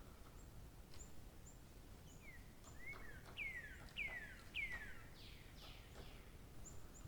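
Bird song: a few short high chips, then a run of four or five clear whistled notes, each sliding down in pitch, loudest about three to five seconds in, over faint outdoor background.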